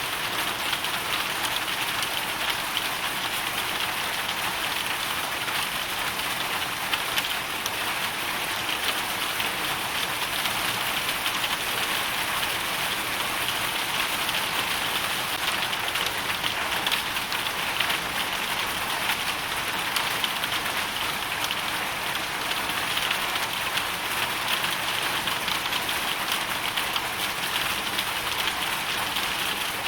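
Hailstorm: a dense, steady downpour of hail and rain striking a surface, a constant hiss made of countless small ticks.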